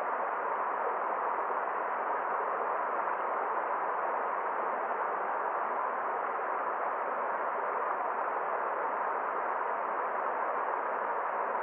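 Forest stream water flowing, a steady even rush with no splashes or breaks.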